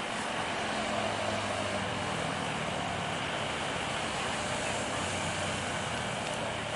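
Steady engine roar of a jet airliner landing close by, holding an even level with a faint low hum underneath.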